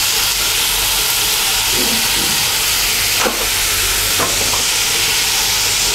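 Bottle gourd peel and potato strips frying in oil in a kadai: a steady sizzle, with a couple of light pops a little past the middle.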